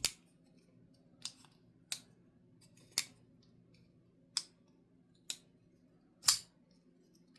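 Kizer Seagull liner-lock pocket knife being flipped open with its front flipper and snapped shut again and again: about seven sharp clicks, roughly a second apart, the loudest about six seconds in.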